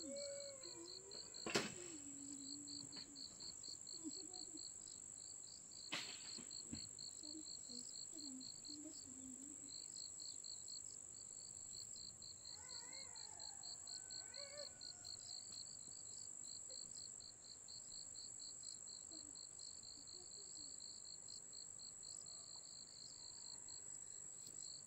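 Insects calling: a steady high drone with a cricket chirping in rapid, even pulses. Two sharp knocks come through, the louder about a second and a half in, and there are faint chirps or distant voices.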